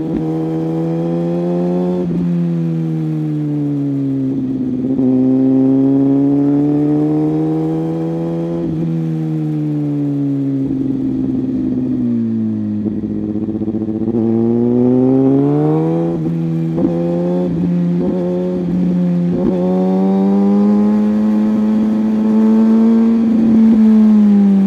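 Superbike engine heard while riding, its note rising and falling with the throttle through several gear changes.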